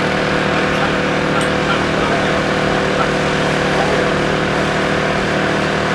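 Racing car engine running loud and steady, its pitch held level with no rise or fall in revs.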